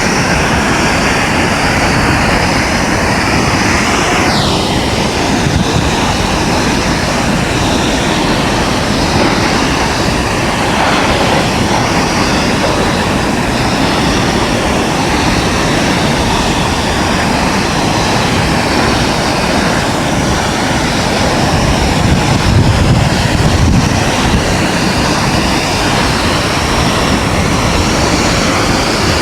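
Steady roar of Multnomah Falls, the waterfall's water plunging and crashing without a break. About four seconds in, a brief whistle glides down in pitch.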